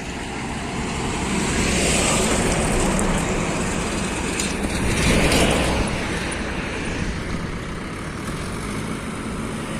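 Heavy diesel engine running, growing louder about two seconds in and again about five seconds in.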